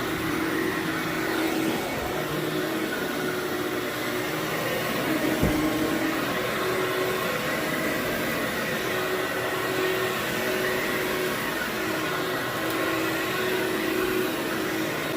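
Vacuum cleaner running steadily on carpet, a steady whirring hum with a slightly wavering pitch. A single short knock comes about five seconds in.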